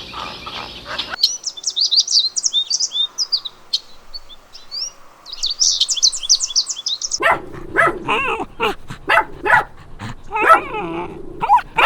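Rapid high-pitched bird chirping for several seconds, then a dog barking over and over, the loudest part.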